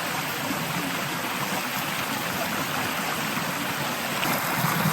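Small rainforest creek running steadily over rocks, a continuous rushing of water.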